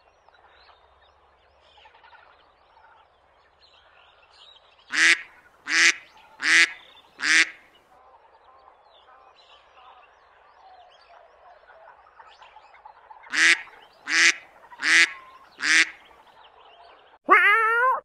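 Duck quacking: two runs of four loud, evenly spaced quacks. Near the end a cat starts to meow.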